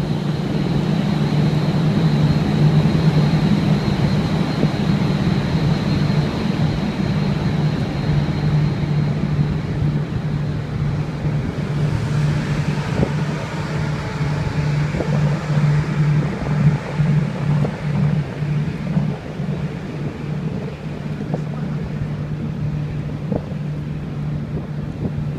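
Steady low mechanical hum of a cruise ship's deck machinery, with wind noise on the microphone. A faint high whine fades out about a third of the way in.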